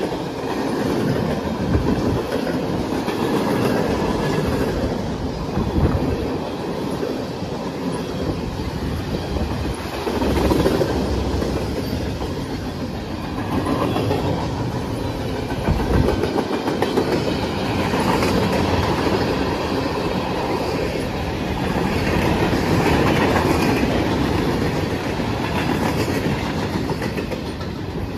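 Freight cars of a passing manifest train rolling by at trackside: steel wheels clacking on the rails over a steady rumble, swelling and easing as the cars pass.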